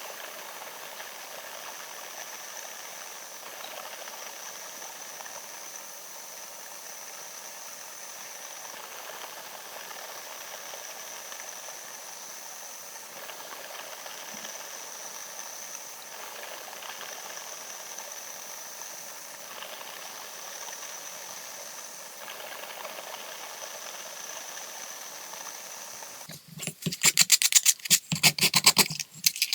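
A steady hiss with a thin high whine, with faint scraping now and then. About 26 seconds in, loud, quick back-and-forth strokes of hand sanding on wood begin.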